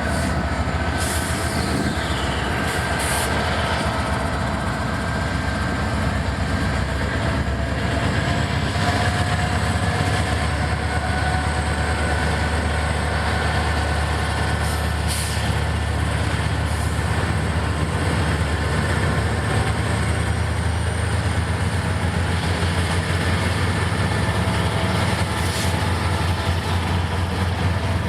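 Diesel freight locomotives, a GE Dash 9-44CW and an EMD SD60E, running with a steady low engine drone as a ballast train rolls on, growing a little louder about eight seconds in, with a few brief sharp sounds and faint high wheel tones.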